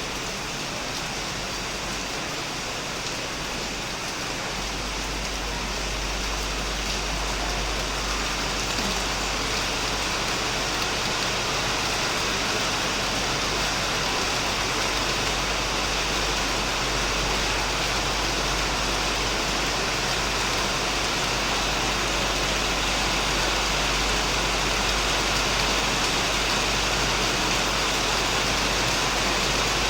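Heavy rain falling on a shed roof and plants, a dense steady hiss that grows slightly louder. A low rumble joins in about four seconds in.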